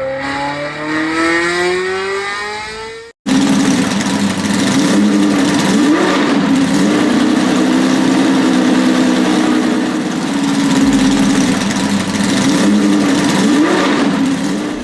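Car engine accelerating, its pitch rising steadily for about three seconds. It cuts off abruptly, and a different, steady car engine sound with a rushing noise takes over for the rest.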